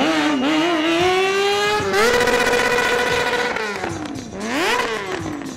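Sport motorcycle engine revving under constant throttle changes during stunt riding: the pitch climbs over the first couple of seconds, holds high for about a second and a half, then falls away, with a second quick rev-up and drop near the end.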